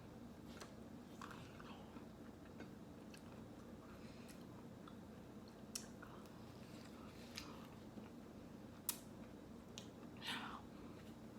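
Close-miked mouth sounds of someone eating ice cream: soft, quiet chewing with scattered wet clicks and lip smacks, the sharpest a little under nine seconds in, over a faint steady low hum.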